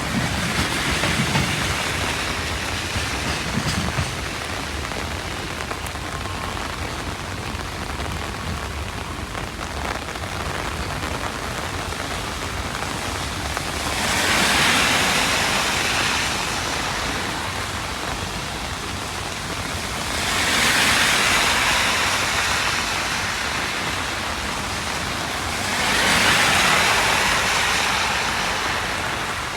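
Heavy rain falling steadily. A low rumble fades out in the first few seconds, and three times a louder hiss swells and fades over two or three seconds.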